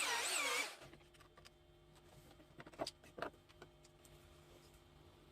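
A loud whine whose pitch wavers up and down cuts off under a second in. It is followed by a faint low hum and a few light clicks and knocks near the middle.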